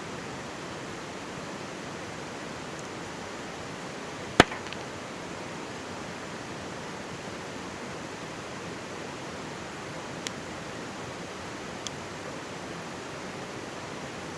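Mountain stream babbling steadily, with burning firewood in a campfire giving one loud sharp pop about four seconds in and two fainter pops near the end.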